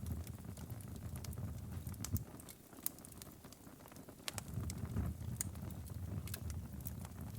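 Wood fire in a fireplace crackling, with frequent sharp pops over a low rumble of flames. The rumble drops away for about two seconds near the middle, then comes back.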